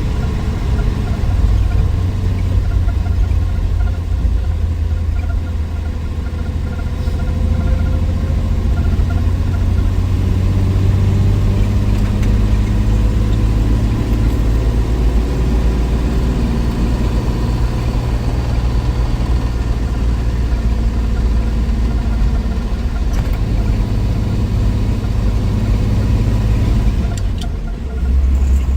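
1963 Willys Wagon's 230 Tornado overhead-cam straight-six running steadily on the road, its low drone rising and falling a little with speed. Near the end the level dips briefly and the engine note settles lower.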